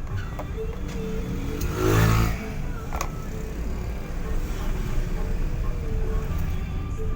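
Motor vehicle noise: a steady low rumble, with one vehicle rising and falling loudly as it passes about two seconds in.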